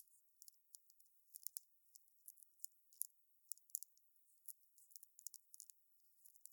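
Wood fire crackling: faint, irregular sharp snaps and pops, several a second, with no steady roar of flame beneath them.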